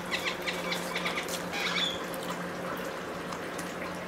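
Water trickling over a steady low hum, with a bird chirping rapidly in the first two seconds.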